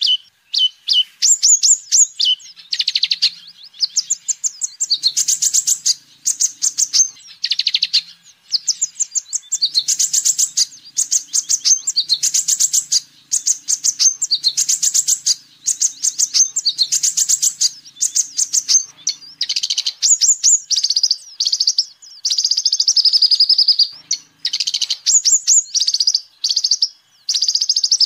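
Kolibri ninja sunbird singing a fast, high-pitched chattering song of rapid trills and chirps, delivered in repeated bursts of a second or few with short pauses between them.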